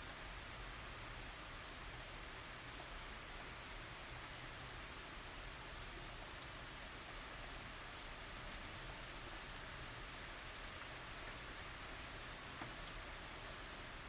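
Steady light rain falling, a constant patter with many small drop ticks, one slightly louder drop tick near the end.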